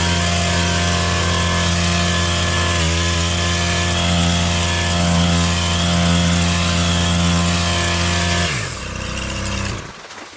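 Stihl KM 130R KombiEngine, a small four-stroke mix-lubricated engine, running at steady high revs while cutting debris; about eight and a half seconds in the throttle is released and the revs fall away.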